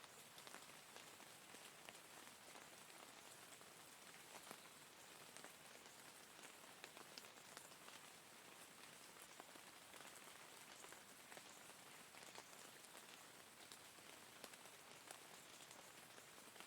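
Faint, steady rain falling on a surface, with many separate drops ticking distinctly through the patter.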